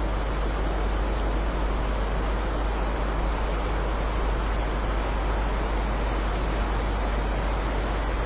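Steady heavy rain, a dense even hiss with a low rumble underneath and no single drops or thunder standing out.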